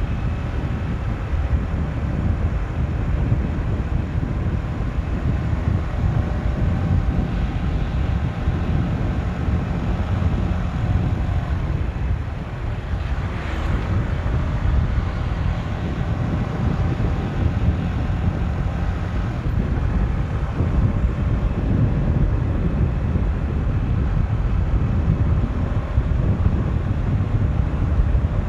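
Motorcycle running at speed on the road, its engine a faint steady tone under heavy wind buffeting on the microphone.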